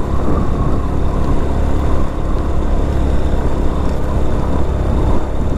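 TVS Victor motorcycle's small single-cylinder engine running steadily while riding, with the road and air noise of the ride.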